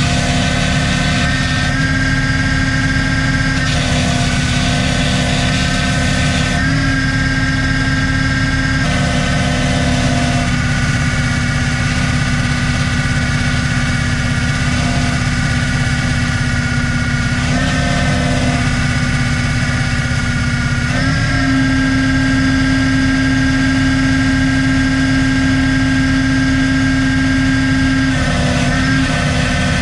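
An engine running steadily, its pitch shifting slightly a few times.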